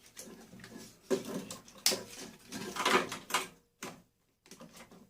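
Small switches and plastic and metal parts being handled and pried loose by hand: irregular clicks, knocks and short scrapes, the sharpest about a second in and near two seconds.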